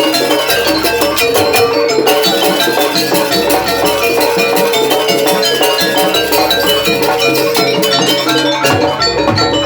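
Live jaranan music: a gamelan-style ensemble of struck metal pitched percussion and drums playing a dense, steady rhythm.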